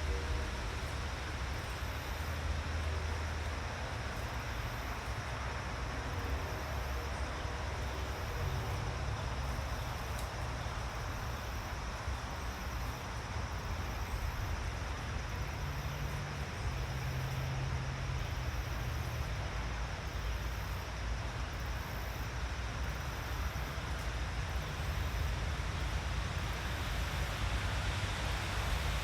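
Steady outdoor forest ambience: an even hiss with a low rumble underneath.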